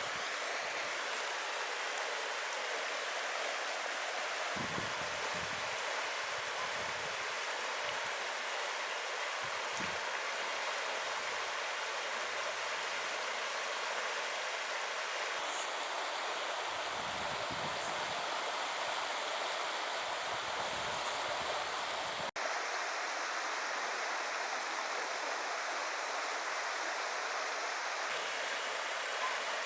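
Steady rushing of a small river flowing over stones, with a momentary break about two-thirds through.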